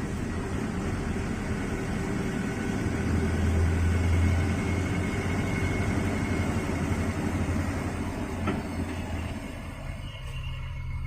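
A vehicle driving along a rain-soaked road: a steady low engine hum under a wide hiss of road noise, turning quieter and steadier about ten seconds in.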